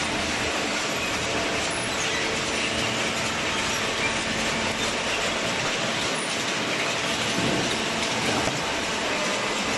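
Double-cylinder vertical carton baler running, a steady machine noise with a faint hum underneath.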